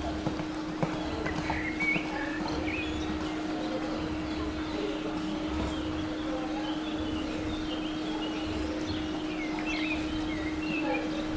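Outdoor ambience: small birds chirping now and then over a steady low hum and an uneven low rumble.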